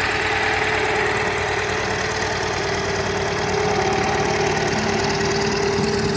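Farm tractor engine running steadily close by, its rapid even firing beat under a steady tone.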